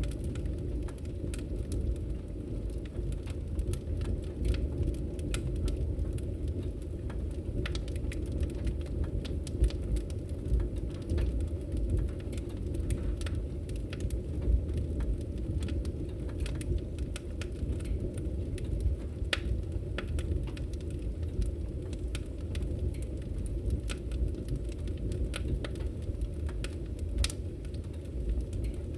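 Campfire crackling: a steady low rush of burning wood with scattered sharp pops and crackles.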